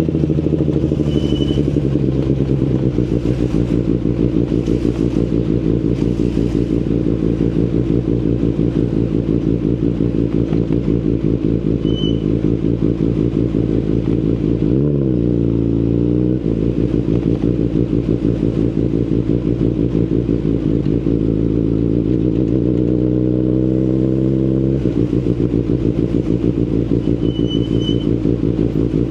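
2019 Kawasaki ZX-10RR's inline-four running through an Akrapovic Evolution Line carbon full exhaust while riding, a steady engine note. Its pitch bends briefly about halfway, then climbs for a few seconds and drops sharply near the end.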